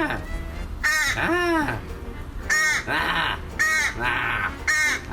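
Crow cawing repeatedly: a run of about seven short calls, some clear and arched in pitch, some harsher.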